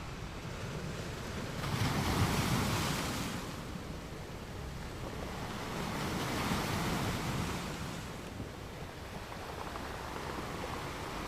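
Ocean surf: waves breaking and washing in, two swells of rushing noise, the first and louder one about two seconds in, a second about six seconds in.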